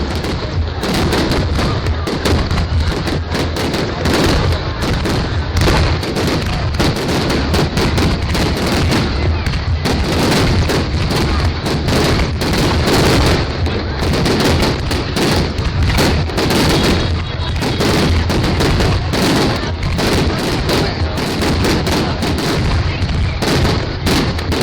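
Fireworks display: a dense, continuous barrage of rapid bangs with no pauses.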